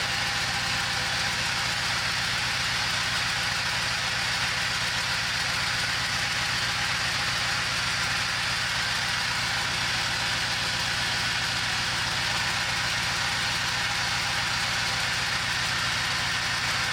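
Diesel engine of a Peugeot Expert van running steadily at idle on one of its first starts after an engine swap, with an even, fast pulse and a strong hiss over it. The engine runs fairly smoothly.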